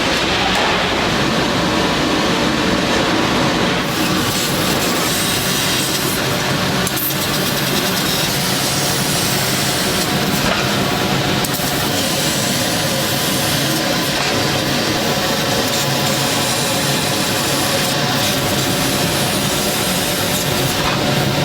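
Steady, loud metalworking-shop machine noise: a dense, even hiss with a low hum under it.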